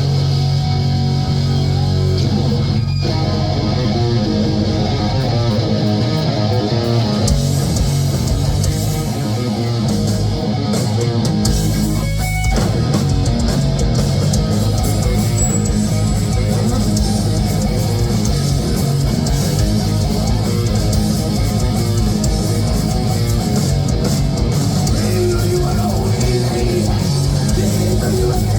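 Heavy metal band playing live, with distorted electric guitars and bass guitar carrying a loud, continuous passage.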